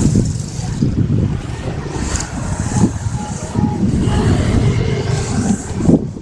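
Train passing close by: a loud, continuous rumble with wind buffeting the microphone.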